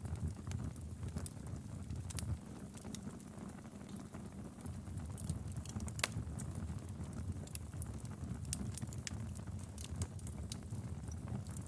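Fireplace fire crackling: irregular sharp pops and snaps over a low steady rumble, with one louder pop about six seconds in.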